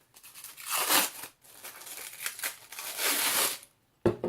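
Plastic sheet lining a bowl crinkling and rustling as it is pulled out, in two main spells, with a brief knock near the end.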